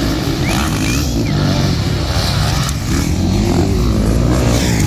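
Motocross bike engines revving hard, their pitch repeatedly rising and falling as the bikes race on the track.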